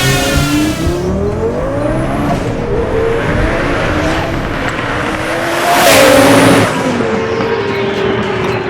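Twin-turbo Lamborghini Gallardo's V10 accelerating, its pitch climbing several times in a row, with a loud rushing burst about six seconds in.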